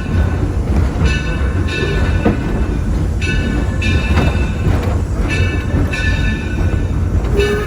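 Steam-hauled passenger train rolling along its track: a steady low rumble from wheels and cars, with high squealing tones that come and go every second or so and occasional sharp clicks.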